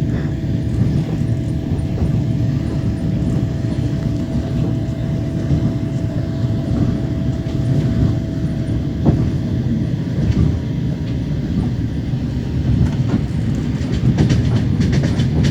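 Train wheels running on the rails, heard from inside a passenger carriage: a steady rumble with scattered clacks over rail joints and a run of sharper clacks near the end. A thin steady whine runs under it until about halfway through.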